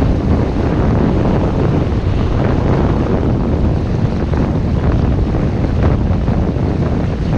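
Loud, steady wind buffeting the microphone aboard a sailboat under way, with water rushing along the hull beneath it.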